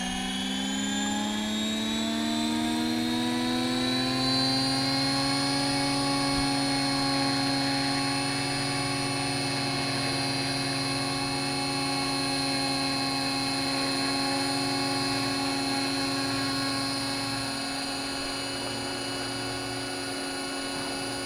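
Battery-powered scale RC helicopter's electric motor and rotors spooling up to flight RPM, a whine rising in pitch over the first five seconds or so, then running steadily at flight speed.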